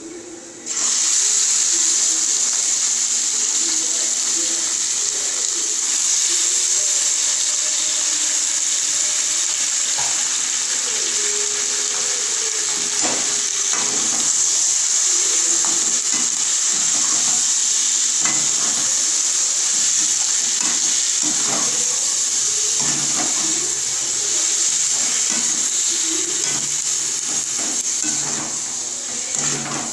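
Sliced onions and raw chicken pieces sizzling in hot oil in a steel kadai, a loud steady frying hiss that starts suddenly about a second in. Short scraping knocks of a slotted metal spoon against the pan come through it as the food is stirred.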